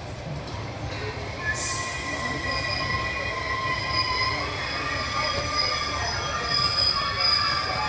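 Railway train running, with a low rumble and a brief hiss, then a high squeal of several steady tones that sets in about a second and a half in and holds.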